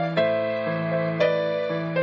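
Background music: soft electric piano playing sustained chords, changing notes about every half second to a second.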